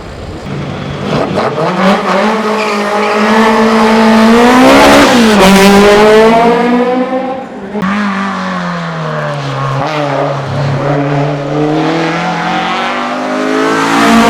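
A hill-climb race car's engine at full throttle, rising in pitch and loudest as it passes about five seconds in. Near eight seconds the pitch and level drop suddenly, and the engine then pulls up again, rising toward the end.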